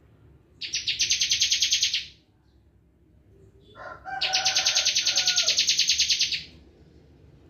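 Bar-winged prinia (ciblek kristal) singing its 'bren' song: two long, rapid machine-gun trills of about nine high notes a second, the second trill opened by a few lower notes and lasting about two and a half seconds.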